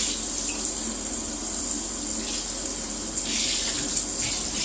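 Water running steadily from a bathroom shower, rinsing Dyson vacuum filter parts held under the stream.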